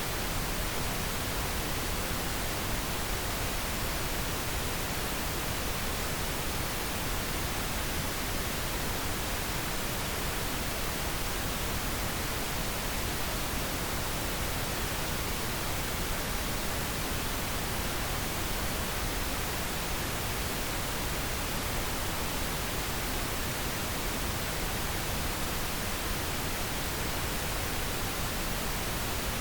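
Steady pink noise: an even, unchanging hiss with no tones or breaks.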